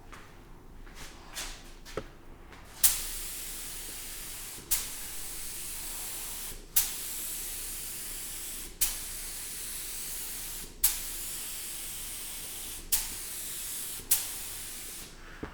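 Spray hissing in repeated passes of about two seconds each, about seven in a row. Each pass starts with a sharp burst and is broken by a brief stop. A couple of small clicks come just before the spraying starts.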